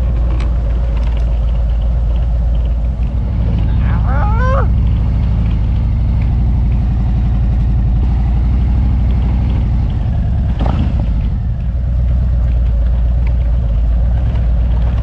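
Harley-Davidson Road King Special's V-twin engine running steadily under way at cruising speed. A brief gliding, wavering tone cuts in about four seconds in.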